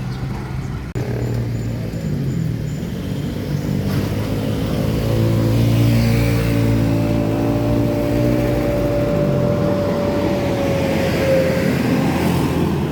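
A boat's engine running, likely the river ferry's, with a steady low hum. Its pitch climbs a little about a third of the way in and eases back down near the end.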